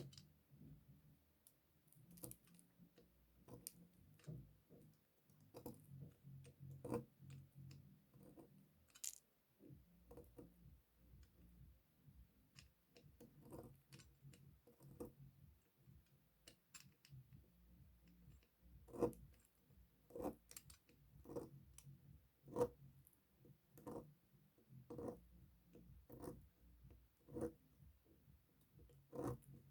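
Faint, crisp cuts of a knife through a bar of soap, short and sharp. Irregular at first, then settling about two-thirds in into a steady run of roughly one cut a second.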